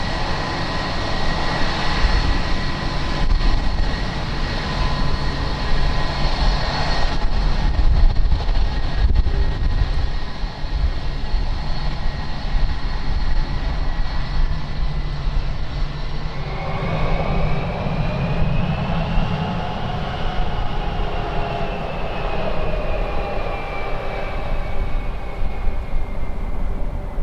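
Jet airliner engines running with a steady high whine. From about two-thirds of the way in, a second whine slowly rises and then falls away.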